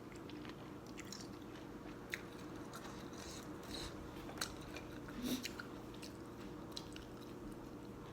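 Close-up sounds of someone eating Thai boat noodle soup: chewing and biting with scattered small clicks and mouth noises, over a faint steady hum.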